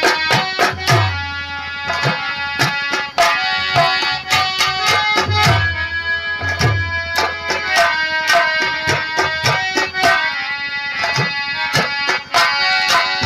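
Instrumental nautanki nagma: a harmonium playing a sustained melody over fast hand-drum strokes, the deep drum strokes sliding down in pitch.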